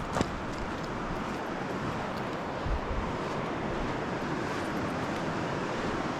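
Creek water rushing over rocks: a steady, even rush, with a single sharp click just after the start.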